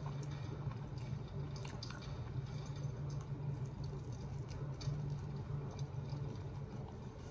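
Close-up eating sounds of chewing and biting into a slice of pizza: scattered small wet clicks and smacks from the mouth, over a steady low hum.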